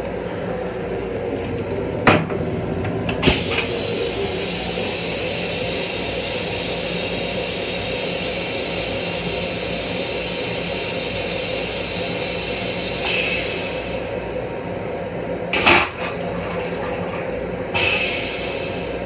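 Long Island Rail Road M7 electric railcar running, heard from inside its restroom: a steady hum with a few sharp knocks, and two short hisses about 13 and 18 seconds in.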